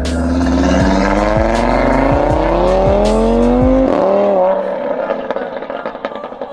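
Audi TT RS's turbocharged 2.5-litre five-cylinder engine accelerating hard, its pitch rising steadily for about four seconds. The pitch then falls sharply with a brief warble, and the engine fades as the car pulls away.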